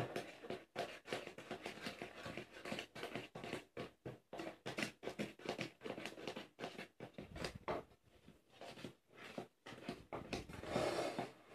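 Cake batter being stirred by hand in a bowl: quick, irregular scraping and clicking strokes of a utensil against the bowl, a little louder near the end.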